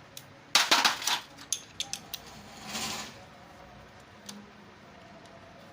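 Small metal engine parts and hand tools clinking and clattering while being handled: a burst of clanks about half a second in, a few sharp single ticks, then a short scraping sound around three seconds in.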